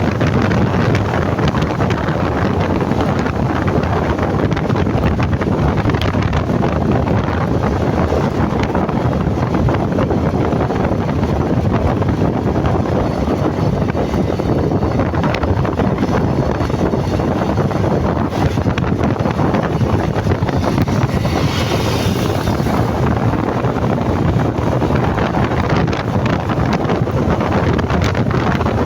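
Steady wind rush buffeting the microphone, mixed with engine and road noise from a motorcycle riding at speed. A higher hiss swells briefly about two-thirds of the way through.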